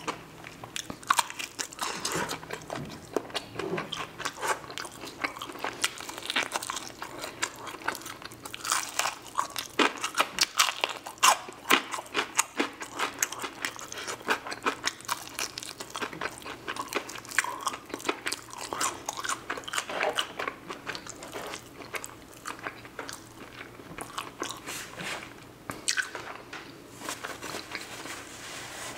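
Close-miked biting and chewing of crispy Jollibee fried chicken dipped in gravy: many irregular crunches of the fried coating.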